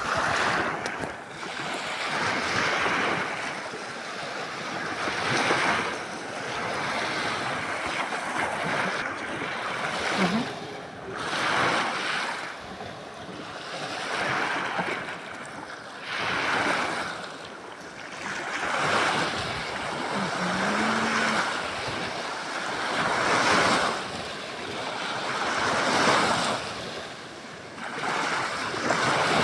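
Waves breaking and washing in, the rushing noise swelling and fading every two to three seconds.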